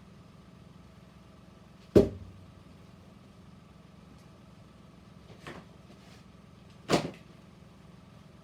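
Two sharp strikes of an axe splitting firewood, about five seconds apart, with a lighter knock between them. A steady hum runs underneath.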